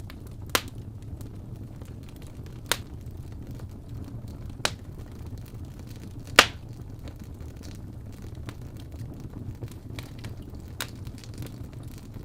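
Wood fire crackling in a fireplace: a steady low rumble of burning with sharp pops every couple of seconds, the loudest about six seconds in.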